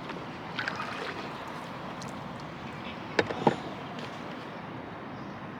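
Small hand-built pine boat being paddled: a steady wash of noise, a few faint clicks about half a second in and two sharp knocks about three seconds in.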